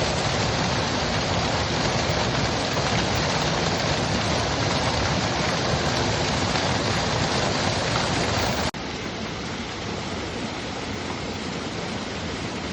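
Mountain stream rushing over rocks in a steady wash of water noise. About nine seconds in it cuts abruptly to a quieter stretch of the stream.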